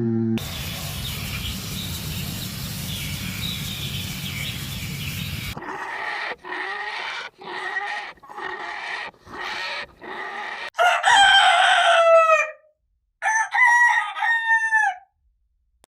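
Steady background hiss for about five seconds, then a chicken clucking in a run of short calls, followed by a rooster crowing twice near the end.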